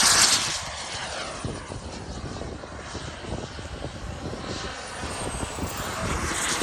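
Radio-controlled model airplane flying past: loud at first, then fading to a steady rush of engine noise, with a faint high whine falling in pitch near the end.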